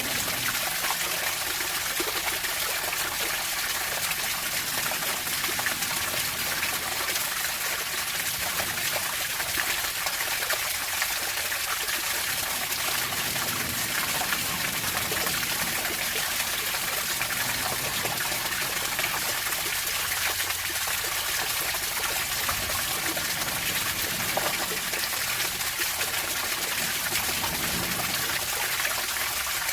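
Running water trickling and splashing steadily, with many small drips and splashes over an even rush.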